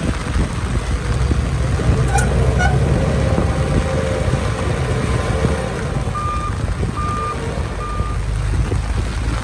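Heavy diesel earthmoving machinery running with a steady low rumble. A back-up alarm beeps three times, evenly spaced, in the second half. A short click and two brief tones come about two seconds in.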